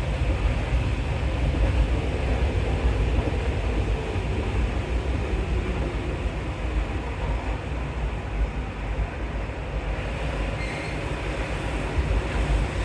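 Rubber-tyred MP14 Paris Métro train sounding from on board: a steady low rumble of running gear and motors that eases a little in the middle and builds again near the end.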